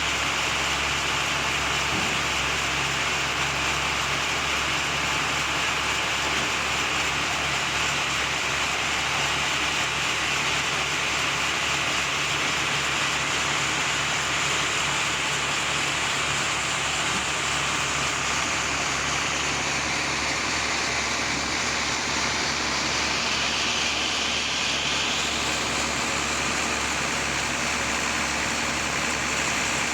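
Sawmill machinery running steadily, a continuous mechanical noise over a low hum; its higher hiss shifts in tone for a few seconds about two-thirds of the way through.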